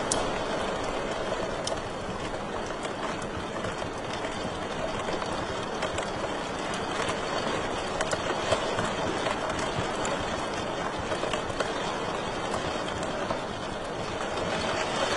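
Wood fire burning in a fireplace: a steady rushing hiss with scattered sharp crackles and pops.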